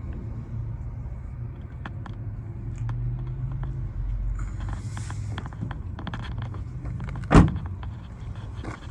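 Pickup bed being opened: scattered clicks and rattles from the bed cover and tailgate, then one sharp loud clunk about seven seconds in, over a steady low rumble.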